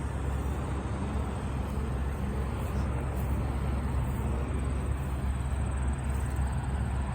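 Steady low engine rumble of heavy construction machinery running, with no distinct knocks or clanks.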